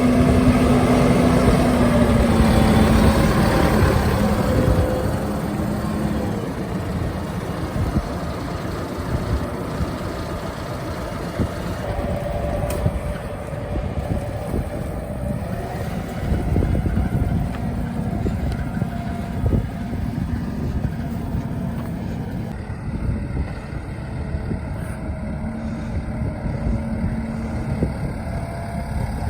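Tractor engine running steadily with a feed mixer turning on its PTO. It is loudest in the first few seconds, with a pitched hum that fades and returns near the end.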